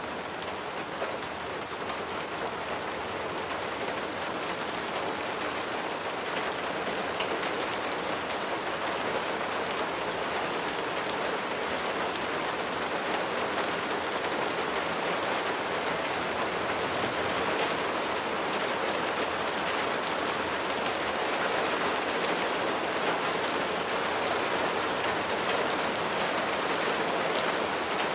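Steady rain falling, a dense hiss with many small drops tapping sharply through it, slowly growing louder.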